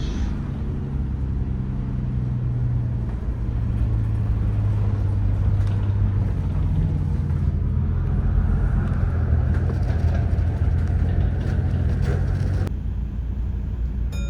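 Tour bus engine running with road noise, a steady low drone heard from on board. The sound changes abruptly near the end.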